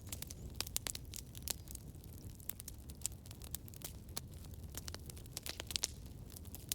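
Campfire crackling and popping: many sharp, irregular pops over a low rumble of burning, with a louder pop near the end.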